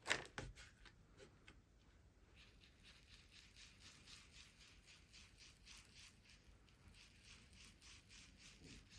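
Near silence, with faint, quick rhythmic swishing of a foam ink-blending tool being worked over paper, about four strokes a second.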